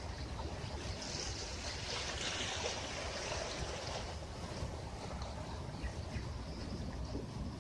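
Ocean waves on a beach: a wave washes in with a swell of hiss about a second in and fades out by about four seconds, over a steady low rumble.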